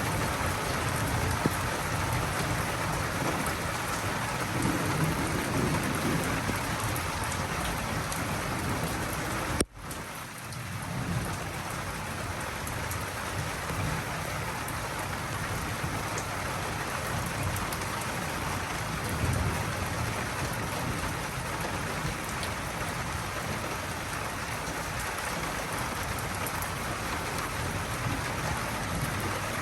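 Heavy rain falling steadily in a thunderstorm, with low thunder rumbling now and then. Just under ten seconds in, the sound cuts out for an instant and comes back.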